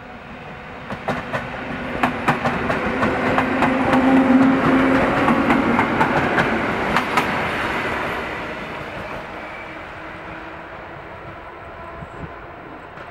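EN57 electric multiple unit passing close by: wheels clacking over the rail joints with a low hum, swelling to a peak a few seconds in and then fading as the train moves away.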